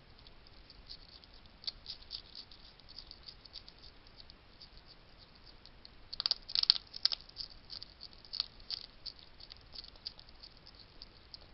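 Wild hedgehogs at a feeding station making a run of irregular sharp clicks and crunches, busiest and loudest about six to seven seconds in.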